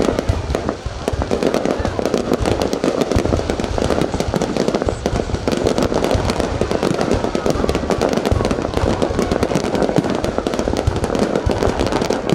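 Fireworks display going off in a dense, continuous barrage of rapid bangs and crackling, with no break.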